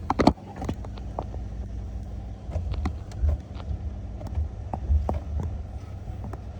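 Low, steady rumble of a car heard from inside the cabin, with scattered light clicks and knocks and a cluster of louder knocks at the very start.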